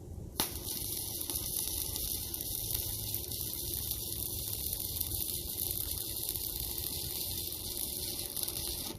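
Electric arc welder laying a weld bead along the bench-top seam: a steady sizzling hiss that strikes up with a sharp click about half a second in and cuts off abruptly near the end.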